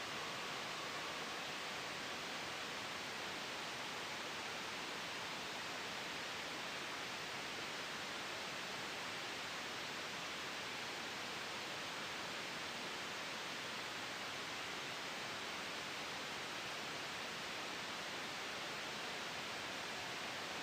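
Synthetic white noise for sleep, a soft, even hiss that holds perfectly steady with no gusts or changes.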